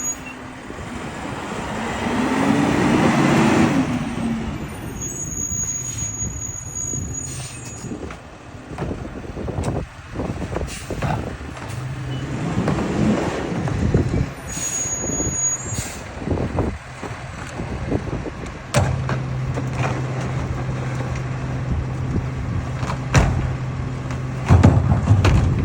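Garbage truck running: its engine rises and falls in pitch twice, with scattered knocks and two short high-pitched tones. Its engine settles into a steady low hum in the second half.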